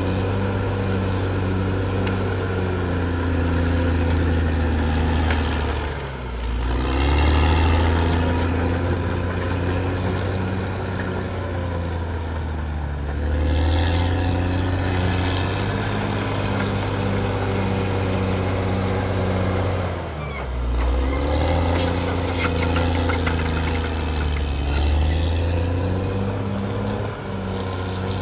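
Caterpillar D6R XL bulldozer's diesel engine running hard, its note dipping briefly about six seconds in and again about twenty seconds in before pulling back up, with metallic clanks and squeals on top.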